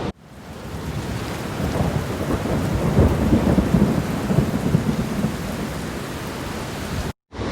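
Heavy rain falling steadily, with a low rumble of thunder that swells in the middle and then eases.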